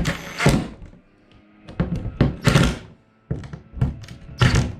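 An inspection plug being handled and fitted into its access port: a handful of thunks and scraping noises about a second apart.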